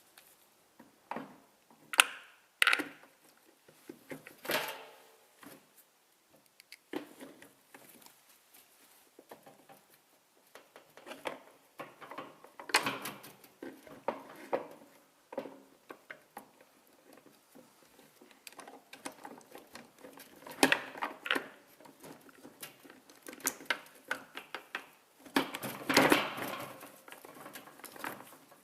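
Metal gearbox parts clinking, clicking and scraping as they are handled and fitted into a Daihatsu Sirion gearbox casing, in irregular bursts with a few sharper knocks.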